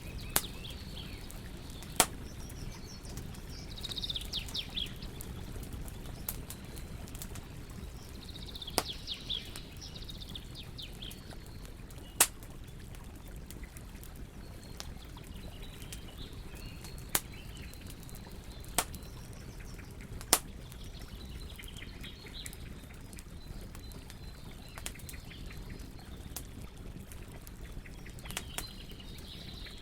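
Wood campfire crackling, with a handful of sharp, loud pops spread through it over a steady low rush. Small birds chirp in short bouts several times.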